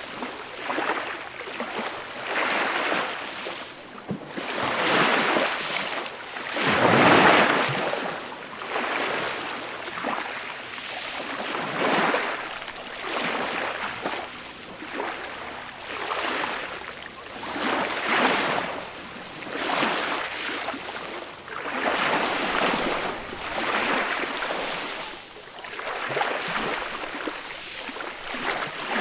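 Small waves breaking gently on a beach shore, each swelling and washing in about every two seconds, with one louder wave about seven seconds in.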